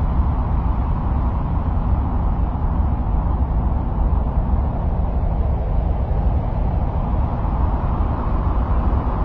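Steady, even noise, heaviest in the deep bass and thinning toward the treble, with no separate events: an ambient 'sound of Mars' noise track.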